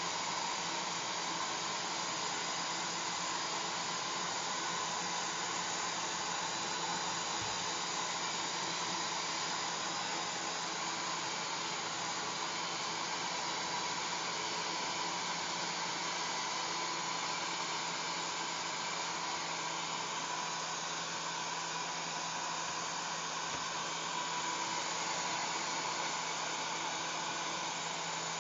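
Hair dryer running steadily: an even rush of blown air over a low motor hum.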